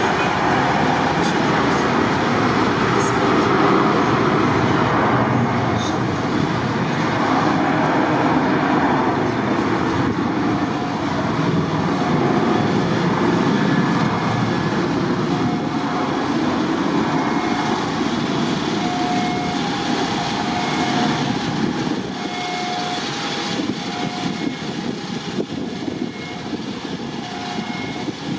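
Ryanair Boeing 737's jet engines at takeoff thrust: a loud, steady rushing noise that fades gradually over the last few seconds as the aircraft climbs away.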